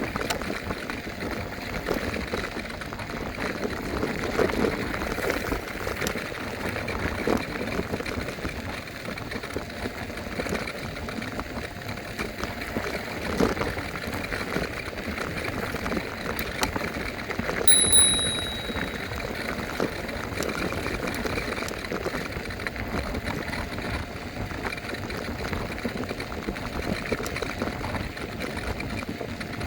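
Wind and road rumble of an electric scooter ride, a steady rushing noise with small knocks from the bumps. About 18 s in, a single bell ding rings out briefly and fades.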